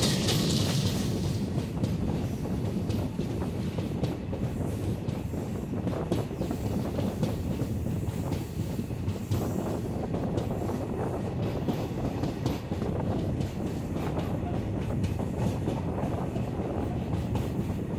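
Katpadi–Tirupati MEMU electric train running at speed, heard from an open coach door: a steady rumble of wheels on rail with irregular clicks over the rail joints and wind rushing past.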